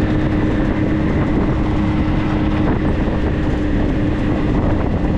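4x4 vehicle on the move: a steady low road and engine rumble, with a steady hum that fades out about halfway through.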